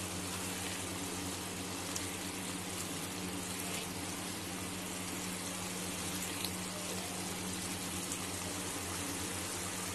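Onion-and-spice masala gravy sizzling and bubbling steadily in oil in a kadai, frying down with only a little liquid left, with a steady low hum underneath.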